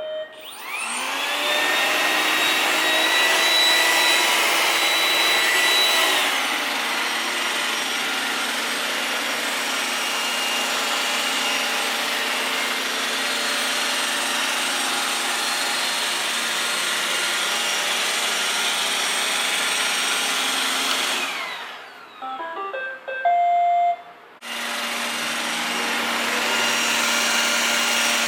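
iRobot Roomba 980 robot vacuum spinning up with a rising whine and running steadily. It is loudest for the first six seconds or so, then a little quieter. About 21 seconds in it winds down and gives a few short electronic beeps, then starts running again.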